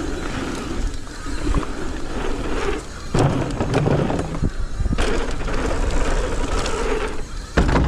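Mountain bike ridden down a dirt trail: tyres rolling on dirt and the bike rattling, with sharp thumps about three, five and seven and a half seconds in.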